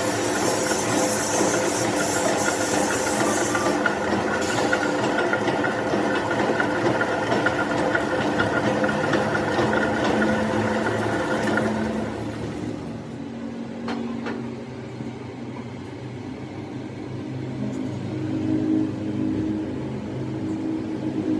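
Metal lathe running with a steady machine hum and machining noise. About twelve seconds in it gets quieter and its pitch settles lower.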